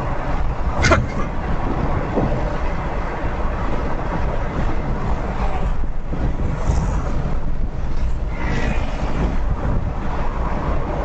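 Steady road and traffic rumble, with one sharp click about a second in.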